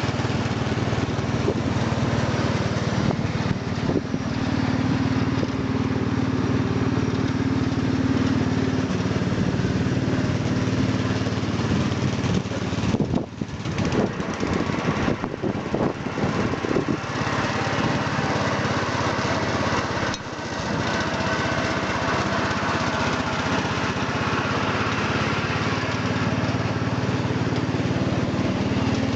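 Rally Roper lawn tractor's 12 horsepower Briggs and Stratton petrol engine running steadily while mowing with its twin-rotor cutting deck. About halfway through, the sound briefly wavers and dips.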